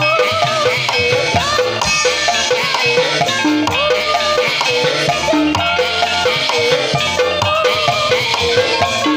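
Traditional Javanese ensemble music accompanying an ebeg (kuda kepang) horse dance: steady drumming with struck keyed percussion and a wavering melody line over it.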